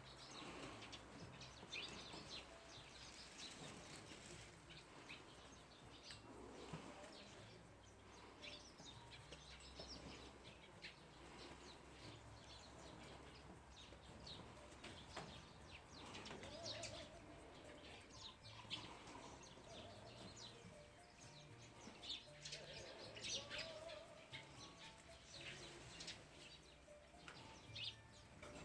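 Faint, scattered bird chirps, short and high, coming every few seconds over quiet background ambience.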